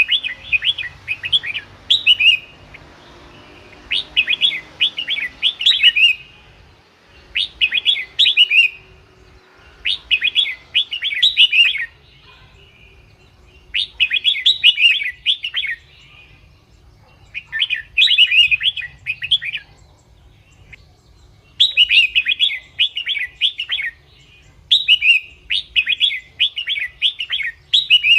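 Red-whiskered bulbul singing: short, rapid warbled phrases repeated about every two seconds, with brief pauses between them. This is the kind of song played to lure wild bulbuls or to get caged ones excited.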